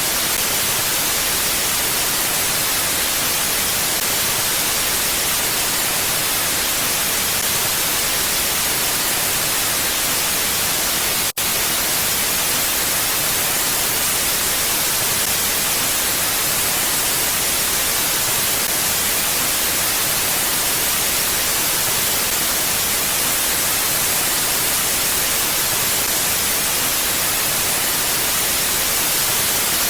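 Steady, even wind hiss, heavy in the highs and without gusts. It drops out for an instant about eleven seconds in.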